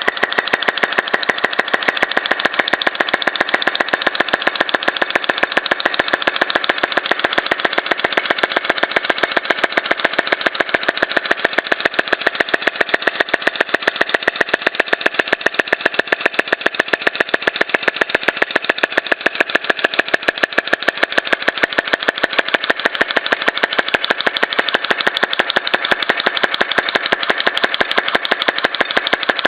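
Small model flame-eating engine running steadily, its piston and valve giving a fast, even clacking of several beats a second.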